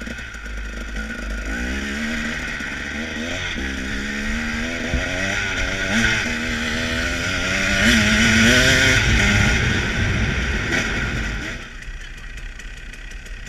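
Dirt bike engine running and revving up and down, loudest about eight seconds in, then dropping away near the end.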